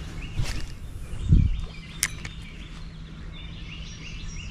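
A small bird chirping repeatedly in short notes over a steady outdoor background. A dull low thump comes about a second in and a sharp click about two seconds in.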